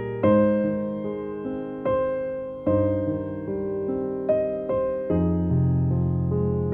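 Background music: slow, gentle piano or electric piano chords, struck about once a second and left to fade.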